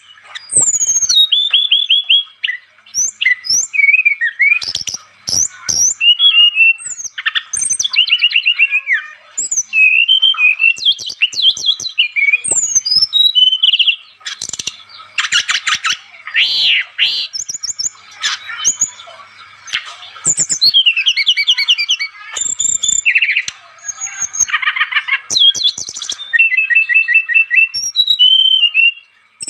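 A brown-chested jungle flycatcher (SRDC) in full, continuous song: a rapid, varied run of clear whistles, trills and chattering note series with only brief pauses between phrases.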